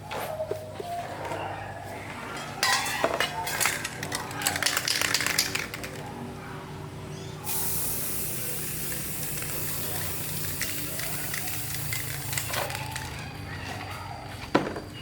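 Some clattering and clinking of metal parts, then about halfway in a steady, high spraying hiss starts abruptly and keeps going.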